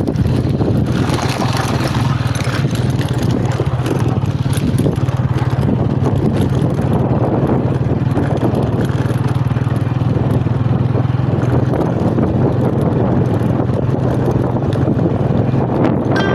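An engine running steadily: a constant low hum with noise over it, unchanging throughout.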